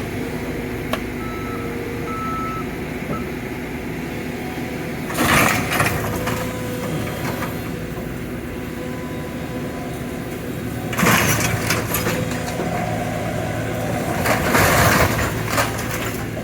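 Cat 313 excavator's diesel engine running steadily while it crushes an SUV, with loud crunching and grinding of the car's metal and glass about five seconds in, again around eleven seconds, and for a couple of seconds near the end.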